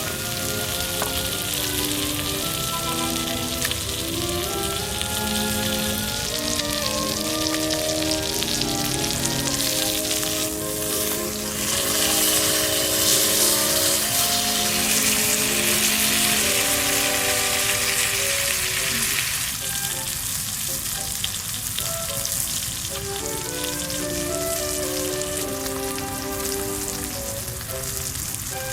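Food sizzling and frying in a pan, the sizzle swelling about twelve seconds in and easing off again about twenty seconds in. Background music with a simple melody plays over it.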